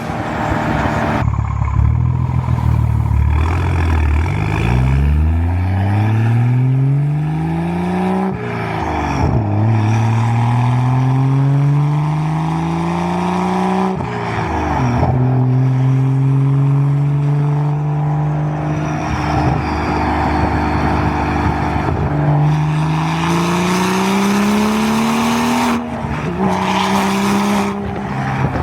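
BMW 340i's Gen1 B58 3.0-litre turbocharged straight-six, through a single-exit exhaust, pulling through the gears under acceleration. The exhaust note climbs in pitch and drops sharply at each upshift, several times in a row.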